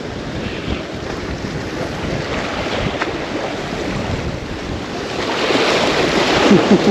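Wind buffeting the microphone over the steady wash of surf, growing louder near the end.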